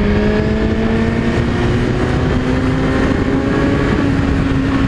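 Suzuki GSX-R1000's inline-four engine through a Yoshimura exhaust, accelerating hard in one gear with its note rising steadily, over a heavy rush of wind noise.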